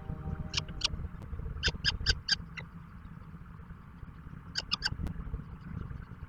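Bird calls: short, high chirps in quick groups of two to four, with pauses between groups, over a steady low rumble.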